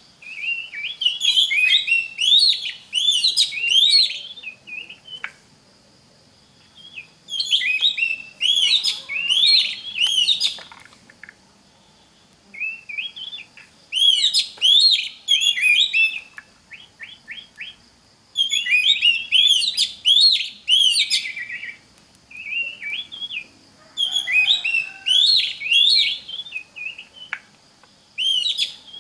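Oriental magpie-robin singing: about five bouts of rapid, varied whistles and chattering notes, each a few seconds long, with short pauses between.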